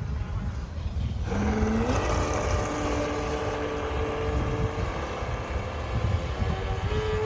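Small electric motor of a radio-controlled model whining as it spins up about a second in, then holding a steady pitch until it stops. A second whine comes in near the end, over a steady low rumble.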